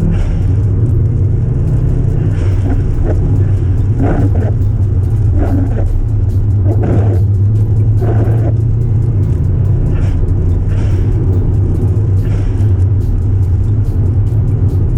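Subaru Impreza WRX's flat-four engine running at a steady pace on the road: a loud, steady low drone with road noise, and a few short bursts of noise between about two and nine seconds in.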